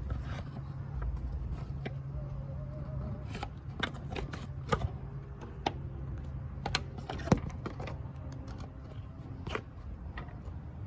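Scattered sharp clicks and light knocks of things being handled, the loudest about halfway through and again a little later, over a steady low hum.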